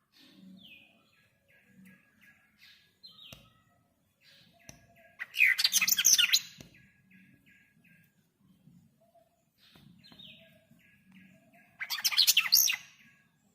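A small bird chirping: soft short high notes repeated, broken twice by a loud burst of rapid chirps, about five seconds in and again about twelve seconds in.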